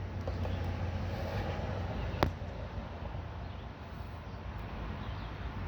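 Steady low background rumble and hiss, with one sharp click a little over two seconds in.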